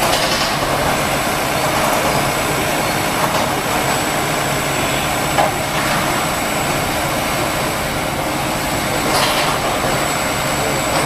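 Heavy truck engine running steadily, with a short hiss near the start and another about nine seconds in.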